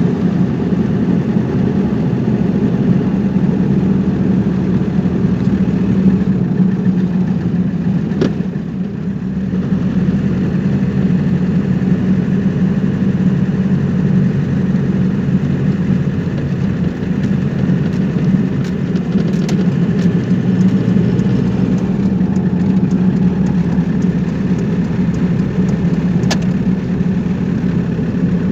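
Steady vehicle engine and road noise, a continuous low hum with a few faint ticks.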